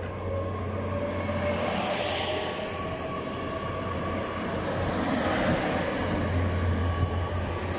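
GWR Class 802 bi-mode train departing and accelerating past on its underfloor diesel engines: a steady low hum with a whine that rises gently over the first couple of seconds, under the rush of the carriages going by.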